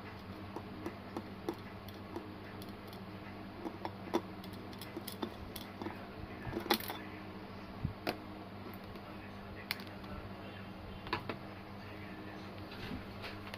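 Scattered light clicks and taps, irregular and a few louder than the rest, as small hard parts and tools are handled during the repair, over a steady low hum.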